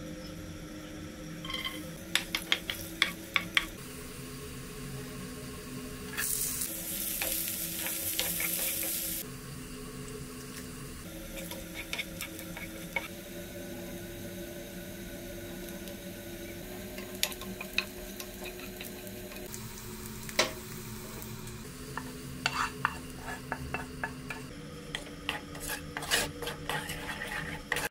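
Garlic, onion and chillies frying in hot oil in a pan, with a steady sizzle and a louder hissing burst of sizzle about six seconds in that lasts about three seconds. A spatula scrapes and clicks against the pan at intervals throughout.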